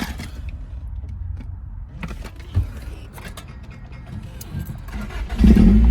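Light clicks and key rattling, then the 1990 Acura Integra's four-cylinder engine fires up near the end and runs steadily. This is the first start on a newly installed distributor.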